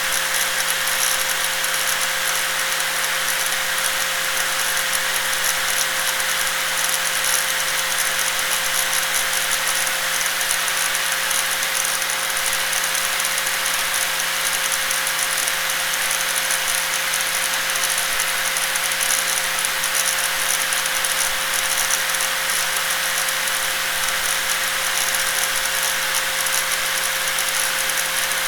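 Angle grinder running continuously at a steady speed: a dense, even hiss with a constant whine, unchanging throughout.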